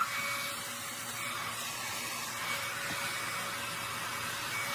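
Revlon infrared ionic hair dryer running: a steady rush of blown air with a faint, even motor whine.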